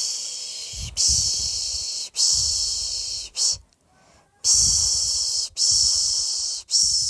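A person shushing a baby to sleep: a string of long 'shh' (piş piş) hisses, about one a second, with a short pause about four seconds in.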